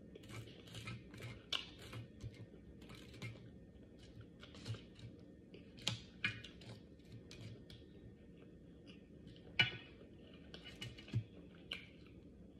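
Close-miked chewing and mouth sounds of someone eating, with irregular wet clicks and light crunches; the sharpest click comes about ten seconds in.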